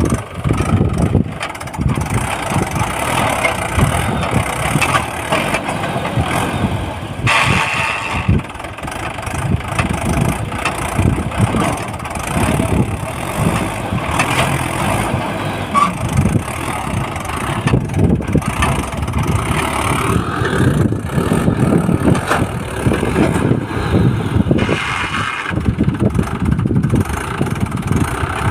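Swaraj 843 tractor's diesel engine running steadily, a continuous low chugging.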